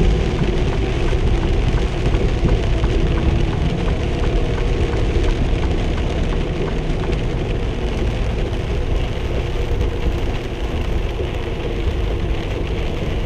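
Rain falling on a truck cab and windshield, mixed with wet-road tyre noise and the truck's engine running underneath, at a steady level.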